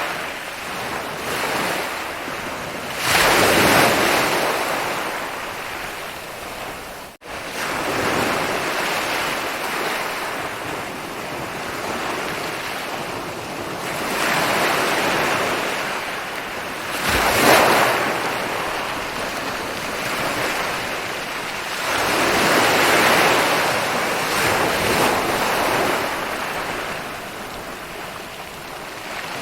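Ocean surf rolling onto a beach: a continuous wash of water with several waves swelling louder as they break, and a momentary cut-out about seven seconds in.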